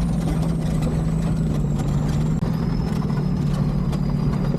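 Land Rover Discovery 2's Td5 diesel engine running steadily at low revs, with a faint high whine above it that drops in pitch about two seconds in.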